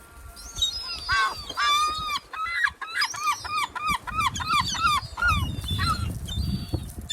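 A gull's long call: a rapid run of loud, repeated yelping notes, about five a second, lasting some four seconds and starting about a second in. A low rumble sits beneath it in the second half.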